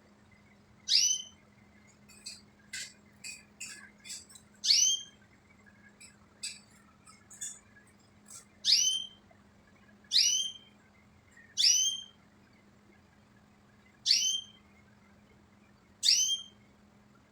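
A small house bird calling over and over: seven loud, short, high calls that drop sharply in pitch, with fainter chirps in between.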